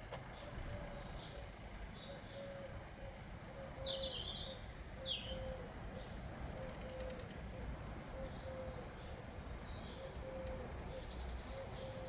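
Small birds chirping in short, scattered calls, over steady low outdoor background noise, with a faint short low note repeating about twice a second.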